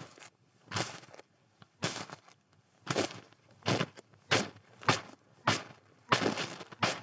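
Footsteps crunching through snow at a steady walking pace, about one crunchy step every second or a little faster.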